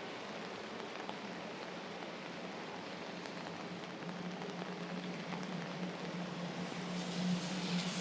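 Steady rain pattering on an umbrella. A low traffic hum grows louder in the second half, with the noise swelling near the end.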